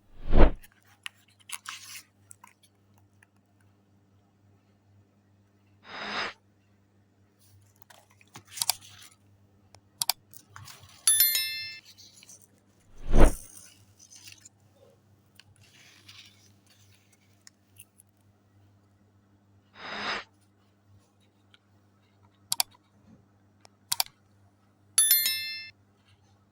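Edited sound effects recurring in a pattern: sharp whooshes, a bell-like chime twice, and scattered short clicks and crinkles over a faint steady hum.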